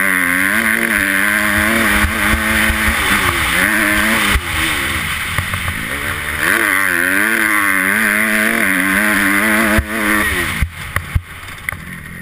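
Motocross bike engine heard onboard, revving up and down repeatedly as the rider works the throttle. About ten and a half seconds in the engine note falls away, leaving scattered knocks and rattles.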